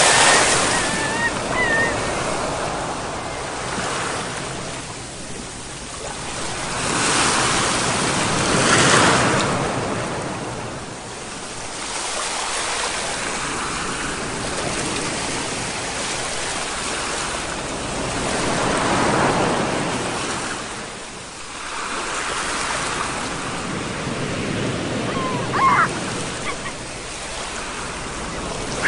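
Ocean surf breaking and washing ashore, swelling and ebbing every several seconds. A brief high chirp sounds near the end.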